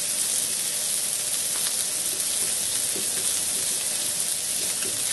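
Hamburger patties frying in a pan, sizzling steadily.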